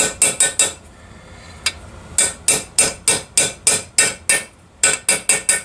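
Hammer tapping on a socket used as a driver to seat a new seal in a 1964 Evinrude Big Twin outboard's lower unit: sharp metallic taps, about three to four a second, in runs with short pauses. The taps are driving the seal home, bottoming it in its bore.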